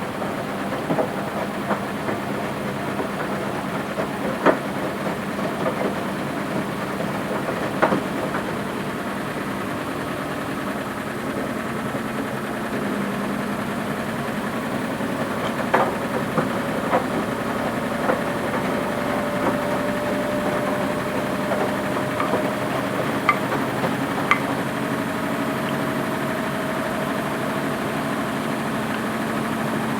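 Front-loading washing machine running, a steady motor hum with a whine that slowly rises in pitch through the second half, and scattered sharp clicks and knocks from the turning drum.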